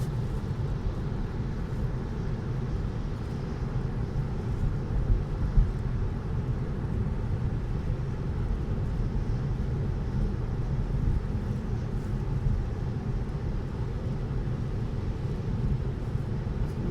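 Steady road and tyre noise heard inside a Tesla's cabin while it drives on wet, snowy roads, a low rumble with no engine note.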